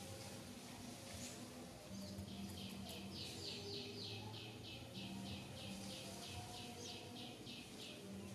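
A bird calling a fast series of short, falling, high notes, about three a second, starting about two seconds in, over a faint steady low hum.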